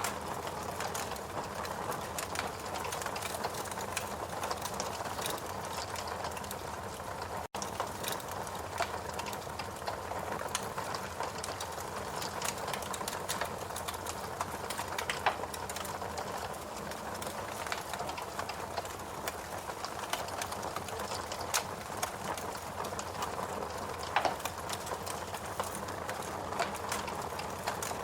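Fire crackling in a fireplace: irregular pops and snaps over a steady rushing hiss, with a momentary dropout about seven seconds in.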